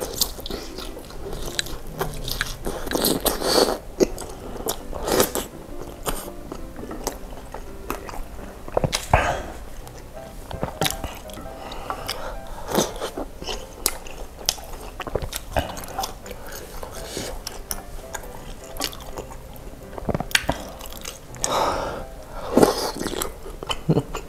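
Close-up eating sounds of chewy baso aci tapioca balls in spicy broth: repeated biting and wet chewing, with a few louder mouthfuls.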